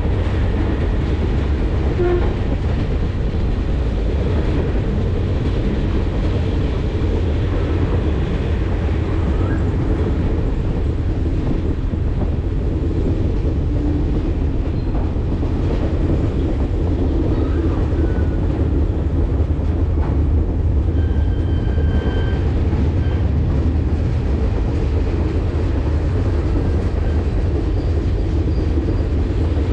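Steady rumble and rattle of a passenger excursion train rolling over the rails, heard from aboard the moving train. A brief high tone sounds about two-thirds of the way through.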